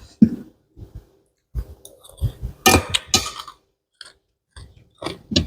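Close-up eating sounds: irregular wet chewing, smacking and clicking of the mouth on a spicy pounded papaya-noodle salad, with a denser run of chewing about two to three seconds in.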